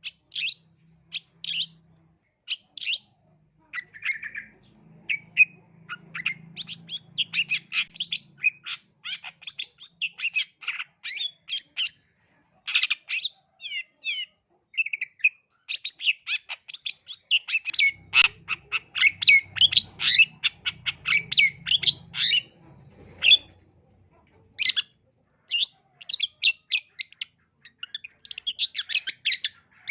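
Long-tailed shrike singing in long, rapid runs of short, scratchy chattering notes and chirps, broken by a few short pauses.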